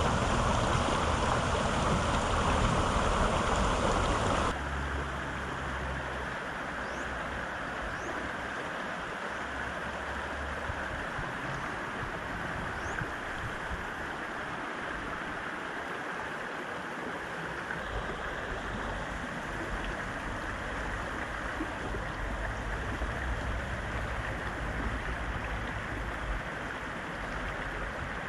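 Fast-flowing river rushing steadily, a continuous wash of water noise; the level drops suddenly about four and a half seconds in, then holds steady.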